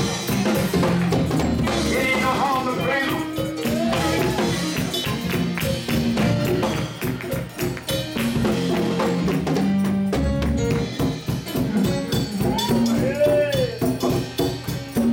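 Gospel church band playing with drum kit and tambourine, with a voice singing over the music.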